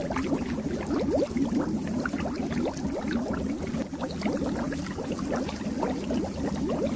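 Aquarium water bubbling steadily: a dense, continuous stream of small bubbles over a low hum.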